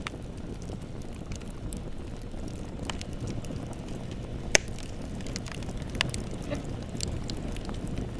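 Wood bonfire burning with a steady low rumble and frequent sharp crackles. One loud pop comes about halfway through and a smaller one a second and a half later.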